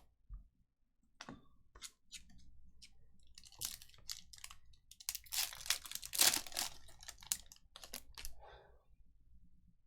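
A foil trading-card pack wrapper being torn open and crinkled, with a few sharp clicks of cards being handled before it. The crinkling is loudest about six seconds in.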